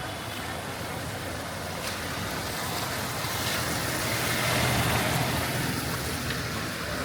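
A car passing on a wet street, its tyre hiss and engine swelling to a peak about four to five seconds in and then fading.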